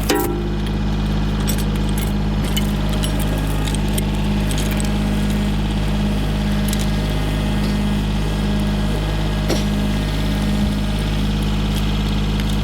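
Tractor engine running at a steady speed, with scattered light metallic clinks and rattles over it.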